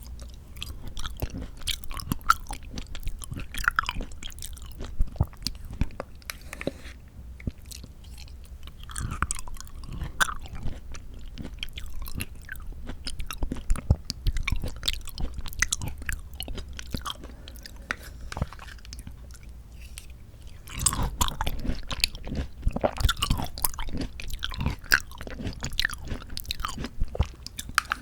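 Close-miked chewing of mandarin orange segments from a fruit cup: a run of many small mouth clicks, busier about three quarters of the way through.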